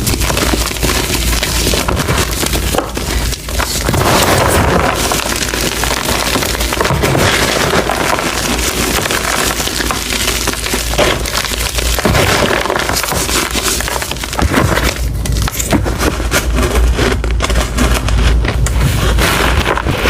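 Reformed gym chalk being crushed and crumbled by hand, close to the microphone: a dense, continuous crunching and crackling of breaking chalk.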